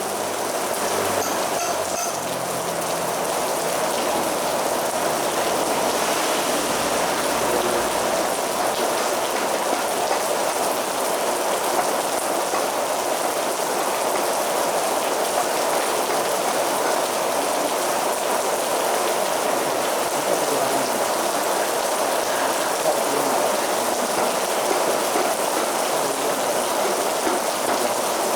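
Heavy rain falling steadily: a dense, even hiss of drops hitting surfaces.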